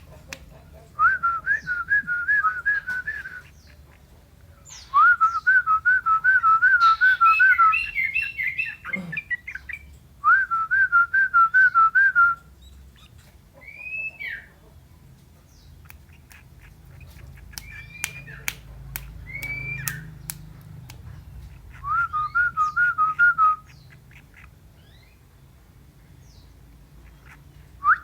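A person whistling through the lips in imitation of a songbird's song. The whistle comes in four phrases of quick, evenly repeated rising notes, with a few single higher chirps between them.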